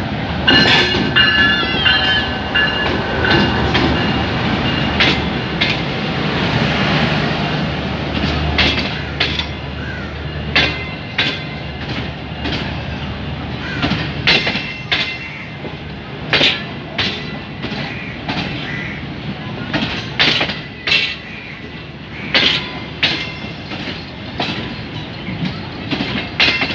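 A GEU-20 diesel-electric locomotive runs slowly past with a steady low engine drone. From about halfway, passenger coaches roll by with the repeated clickety-clack of their wheels over the rail joints.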